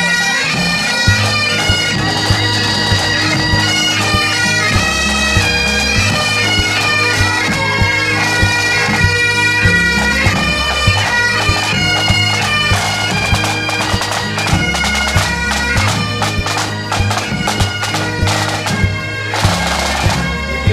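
Bagpipes playing a marching tune over their steady low drones, with drum beats underneath: a pipe band.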